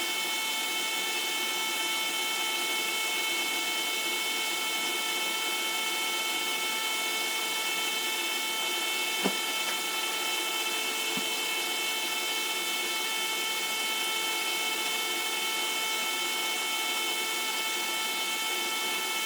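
Small circulation pump running steadily with a whining hum as it pushes vinegar through a tankless water heater to flush out scale. There is a single sharp click about nine seconds in.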